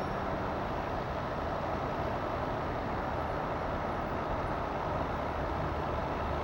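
Steady, even engine rumble with no distinct strikes or changes.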